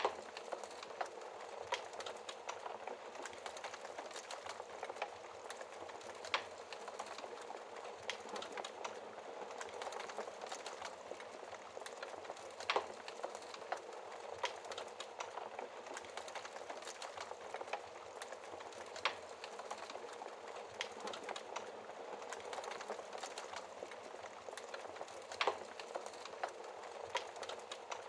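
Wood fire in a fireplace crackling steadily, with scattered sharp pops, a few of them louder than the rest.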